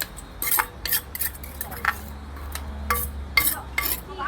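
Irregular clinks and knocks of kitchen utensils and dishes, with about ten sharp strokes in no steady rhythm.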